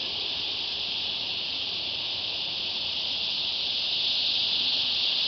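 Cicadas singing in a steady, high-pitched chorus that slowly grows a little louder.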